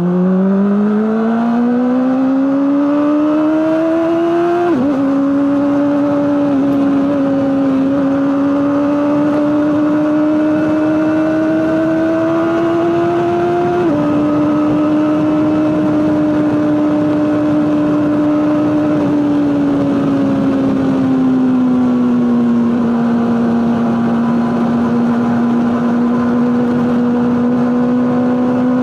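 Honda CBR600RR inline-four engine running through an Akrapovic exhaust. Its note climbs steadily over the first few seconds, drops abruptly twice (about five seconds in and again near the middle), and eases lower later on, then holds steady.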